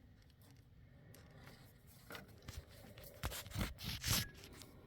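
Faint handling noises as the wires behind the refrigerator's back panel are moved out of the way: a few short scrapes and rustles, starting about two seconds in and clustering in the last two seconds.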